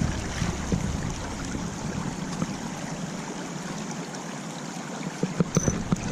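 Steady rush of running creek water, with a low wind rumble on the microphone that drops away about two seconds in and a few light clicks near the end.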